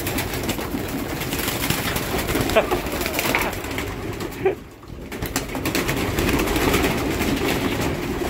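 Many racing pigeons cooing together in a loft, a continuous low warbling chorus that drops away briefly about halfway through.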